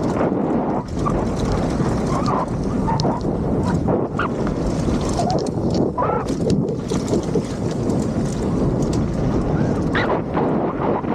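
Wind buffeting the microphone in a steady, dense rush, with a few short squeaks scattered through it.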